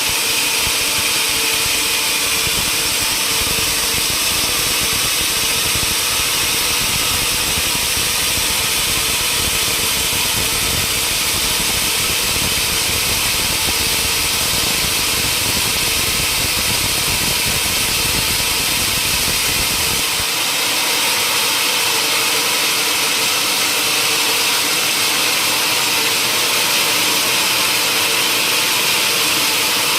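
Sawmill machinery running steadily: a loud continuous hiss with a steady hum. The deep rumble drops out about two-thirds of the way through.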